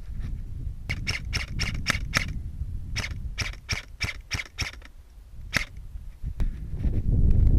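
Airsoft rifle firing quick semi-automatic shots: a run of about six sharp cracks, a short pause, a run of about seven more, then one last single shot. A low rumble on the microphone grows louder near the end.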